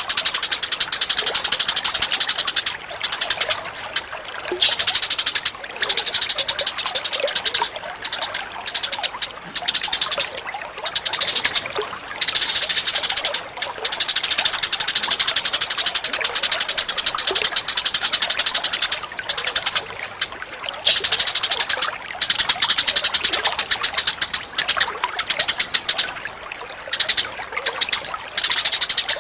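Rapid, high-pitched chattering bird calls, a fast pulsing trill in long bouts broken by short pauses, from a looped bird-training (masteran) recording.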